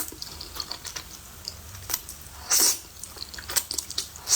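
Close-miked eating of noodles: small wet mouth clicks while chewing, with three short slurping bursts, the longest and loudest a little past halfway.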